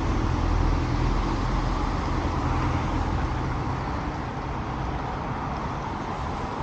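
Street traffic: a motor vehicle's low rumble and tyre noise, loudest at the start and fading as it moves away.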